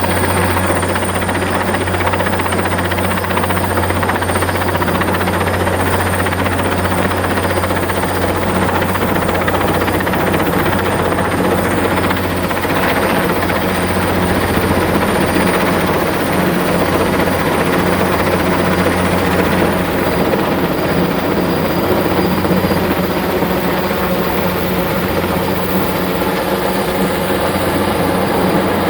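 Erickson S-64 Aircrane heavy-lift helicopter running steadily, its rotor drone loud and continuous with a thin, steady high whine above it.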